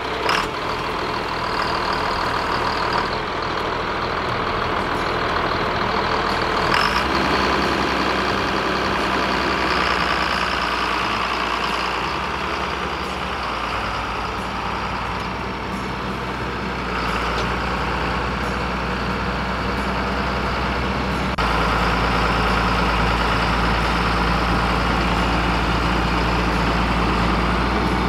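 Farm tractor engine running steadily as the tractor is driven; the engine note steps up about seven seconds in and again, more sharply, about twenty-one seconds in.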